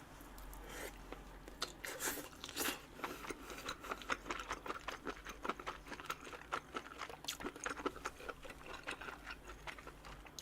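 A person chewing a crunchy mouthful close to the microphone: many small, irregular crisp crunches and wet chews. The mouthful includes oyster mushroom that is barely cooked.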